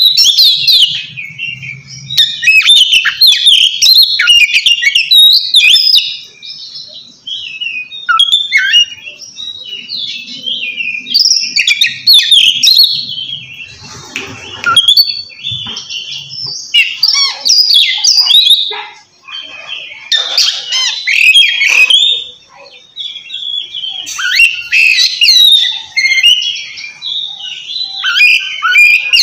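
Oriental magpie-robin singing loudly: a rapid, varied run of whistles and chirps in bursts, with short pauses between them. This is the loud, full 'ngeplong' song that a male uses to call out a rival.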